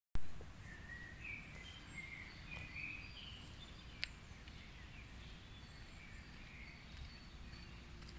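Birds singing in short warbling phrases and high chirps over a steady low background rumble, with one sharp click about four seconds in.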